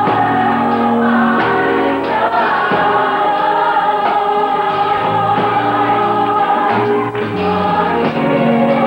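Gospel choir singing with instrumental accompaniment, many voices holding sustained chords over a steady bass line.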